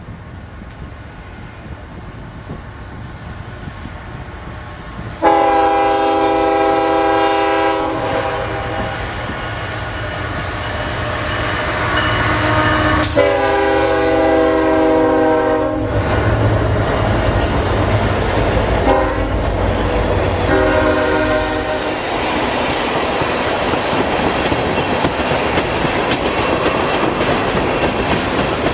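Diesel locomotive air horn sounding the grade-crossing signal: two long blasts, a short one and a final long one, over the low rumble of the approaching train. The train then passes, its wheels clacking over the rail joints.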